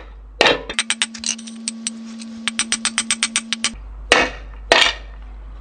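A gear being knocked onto a quad gearbox shaft with hammer blows: a quick run of about twenty light taps, then a few heavier single knocks near the end.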